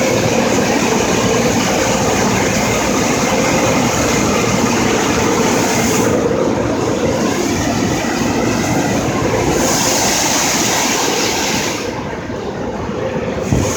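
Automatic car wash blow dryers blowing, a loud steady rush of air over a constant hum. The high hiss drops away for a few seconds midway, and the sound eases off near the end.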